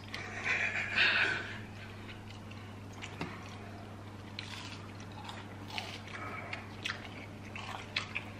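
Close-up eating sounds of people biting and chewing sauce-dipped chicken nuggets: soft wet mouth noises with scattered small clicks and crackles. A brief hiss-like noise comes in the first second or so, and a steady low hum runs underneath.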